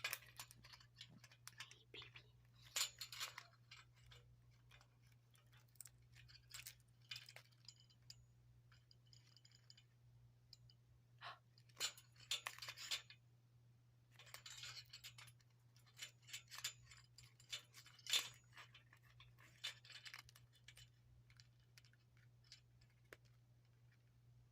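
Indian ringneck parakeet chewing and tearing at a small toy hat with its beak: faint, irregular crunching and clicking, in short bursts with pauses between, over a steady low hum.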